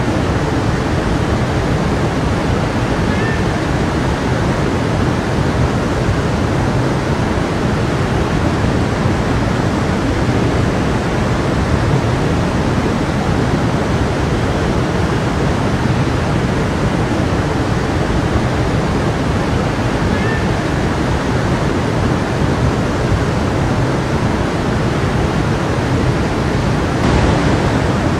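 A stream of water flowing steadily, a constant rushing with no pauses.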